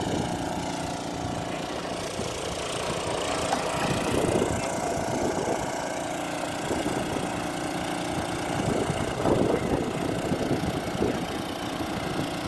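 A motor running steadily, with an even hum over an uneven low rattle.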